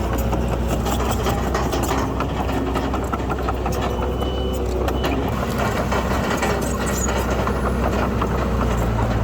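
Heavy diesel earthmoving machinery running steadily under load, its low engine note overlaid with rapid metallic clanking and knocks.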